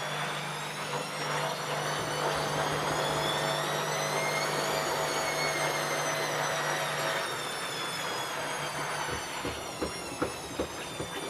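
ELIN A 100 E washing machine running: its motor whine climbs slowly in pitch, peaks, then sinks again over a steady low hum. A few sharp clicks or knocks follow near the end.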